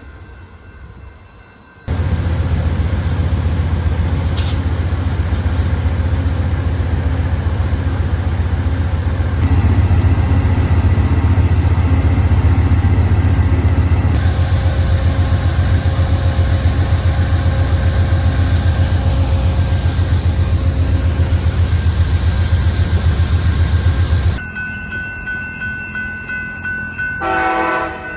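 GE P42DC diesel locomotive idling, a loud steady low throb. Near the end, level-crossing bells ring and a train horn gives a short blast.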